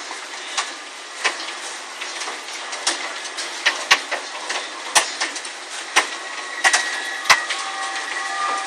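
Hailstones striking hard surfaces as irregular sharp knocks, about one or two a second, over a steady hiss of falling hail and rain.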